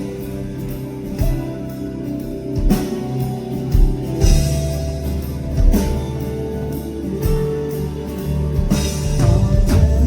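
Live pop-rock band playing an instrumental passage, with guitars and a drum kit keeping a steady beat.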